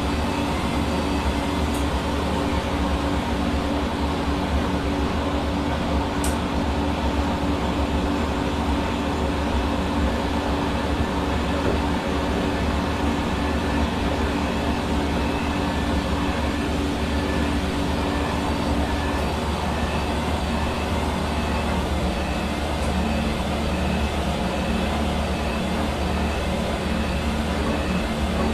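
Hair dryer running continuously, a steady blowing rush with an electric motor hum. The hum drops slightly in pitch about two-thirds of the way through.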